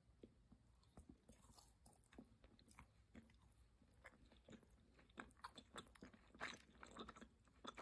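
Close-miked mouth chewing a bitten chunk of sweet with lips closed: quiet crunchy crackles and wet clicks, sparse at first and denser and louder in the second half.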